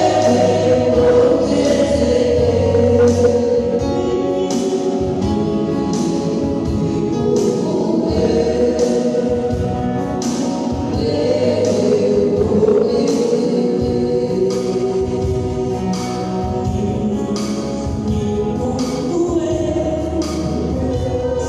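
Gospel music: a choir singing over a band with a steady percussion beat and a bass line.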